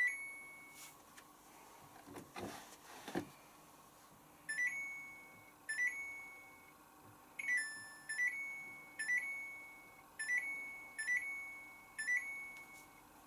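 Samsung Ecobubble WF80F5U4W washing machine's control panel beeping as its buttons are pressed to set the wash options. It gives about nine short two-note beeps, the later ones about a second apart. There is a brief rustle of handling around two to three seconds in.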